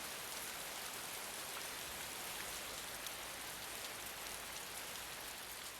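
Steady rain falling: an even hiss flecked with small drop ticks, easing slightly near the end.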